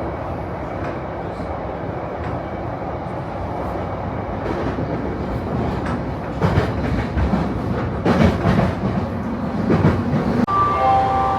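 Train running on the rails: a steady rumble with louder wheel clatter over rail joints from about six to ten seconds in. Near the end the sound changes abruptly and a few short tones begin.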